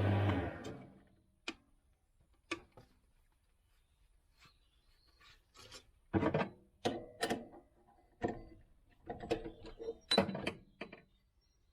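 A small lathe's motor spins down and stops. Then come scattered clicks and short spells of rubbing and scraping on a metal part that has just been sanded with emery paper.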